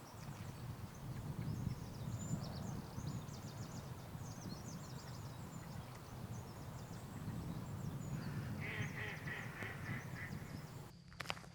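Forest birds calling over a low steady rumble: thin high chirps, then a quick run of about eight repeated nasal notes near the end, followed by a few sharp clicks.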